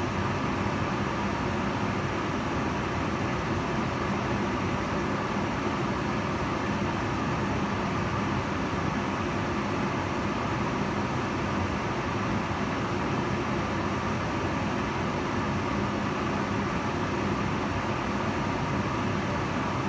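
Kitchen range hood fan running steadily: an even whooshing rush of air with a faint low hum.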